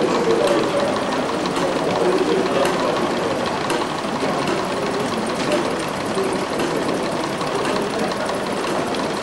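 Small machine running steadily with a fast, even mechanical clatter.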